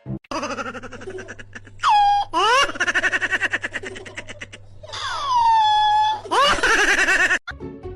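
A high-pitched voice squealing and laughing. Long squeals fall in pitch about two seconds in and again about five seconds in, with a quick run of short laughing pulses between them.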